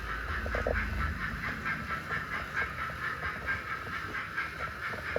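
Sound-fitted model steam locomotive running along the track, giving out a steady rhythmic steam chuff through its small onboard speaker, over the hum of its motor and wheels.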